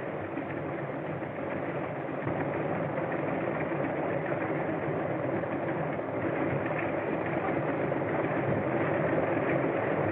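Propeller aircraft engine idling steadily, growing slightly louder.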